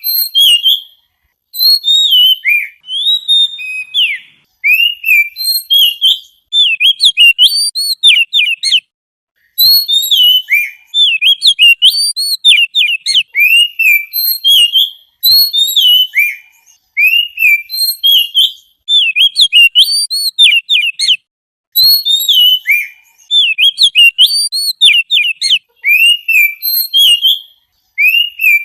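Songbird singing a rapid, varied song of sharp whistled notes that swoop up and down, delivered in phrases a second or two long with short pauses between them.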